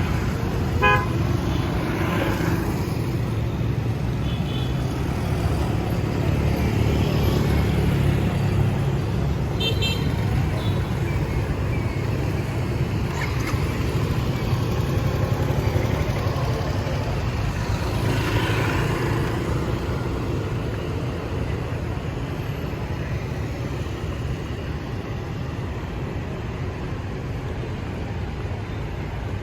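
Steady street traffic of motorbikes and cars passing close by, with short horn toots near the start and again about ten seconds in.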